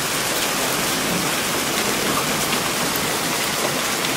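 Heavy thunderstorm rain mixed with hail pouring down: a steady dense hiss with scattered faint ticks.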